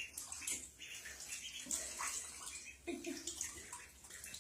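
Ducklings splashing and paddling in bathtub water: a run of small, irregular splashes.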